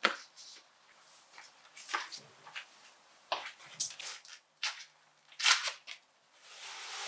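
Scattered clicks, knocks and rustles of objects being handled, with a brief rustling swell near the end.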